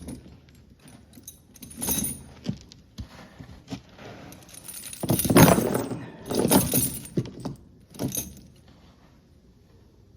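Handling noises: several bursts of rustling with light metallic jingling, the loudest about halfway through, then quieter toward the end.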